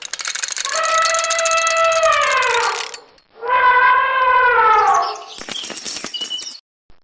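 Rapid ratchet-like mechanical clicking laid over a horn-like tone that is held and then slides down in pitch, sounded twice. A second burst of clicking follows about five seconds in.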